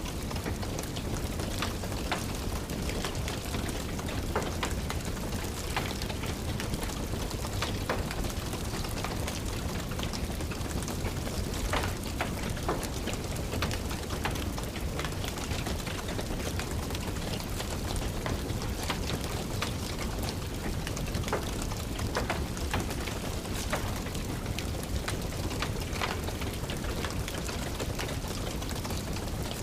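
Steady rain hiss with irregular sharp crackles and pops of a wood fire burning in a fireplace.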